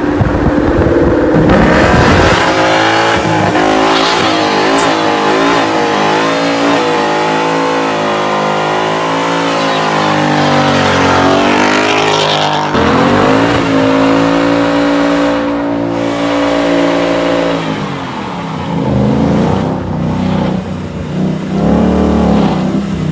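Car engine revving hard, its pitch climbing and falling again and again, held high for a few seconds around the middle before dropping away.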